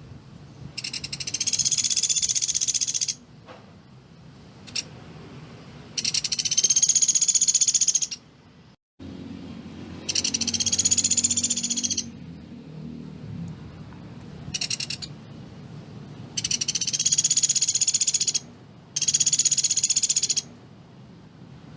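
Pelatuk beras, a small woodpecker, giving its rapid, closely packed trilling call six times. Each trill lasts about one and a half to two seconds, and one is shorter. They are high-pitched, with short pauses between them.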